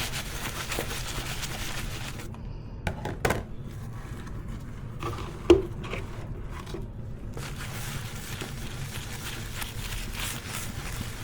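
Dishes being scrubbed by hand at a sink. The scrubbing pauses for a few seconds, with a few light clinks and one sharp knock of a dish about halfway, then starts again.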